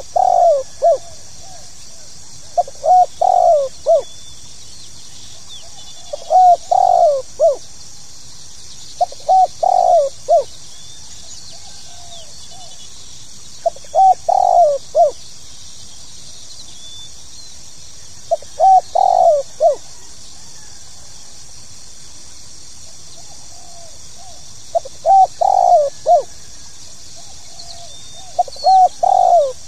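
Spotted dove (tekukur) cooing: a short phrase of three or four coo notes, repeated eight times at gaps of about three to six seconds, over a steady high hiss.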